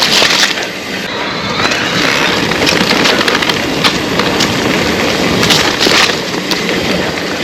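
Trek Rail 7 electric mountain bike rolling over a rough trail: steady tyre rumble with many small knocks and clatter from the bike. There are a few short bursts of hiss, about half a second in and again around five and a half to six seconds in.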